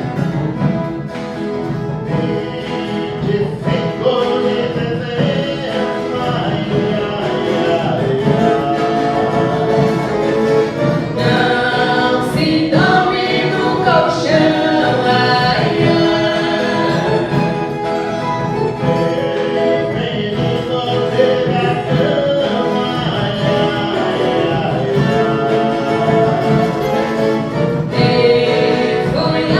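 A viola caipira ensemble playing a Reisado (Folia de Reis) song, with a group of voices singing together over the plucked strings.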